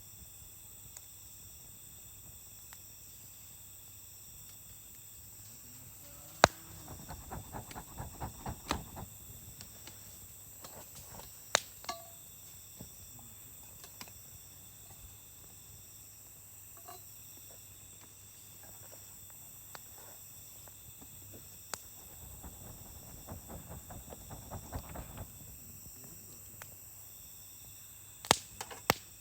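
Campfire crackling, with two spells of quick snapping and a few sharp single pops, over crickets chirring steadily.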